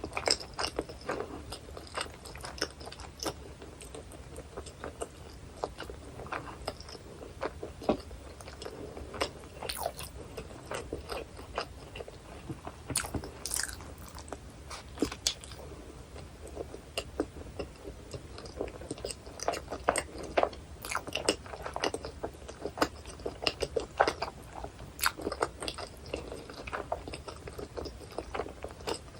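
Close-miked eating sounds of a hot dog with chili, cheese sauce and onions being bitten and chewed: a steady run of irregular wet clicks and smacks.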